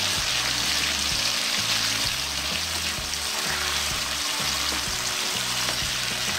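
Shrimp sizzling in hot oil in a wok as a spatula turns them, a steady dense hiss. Background music with low bass notes plays underneath.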